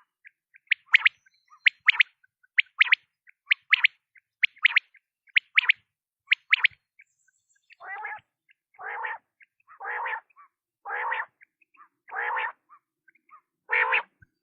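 Quail calling, about one call a second: short, sharp high notes in pairs for the first seven seconds or so, then six longer, lower calls.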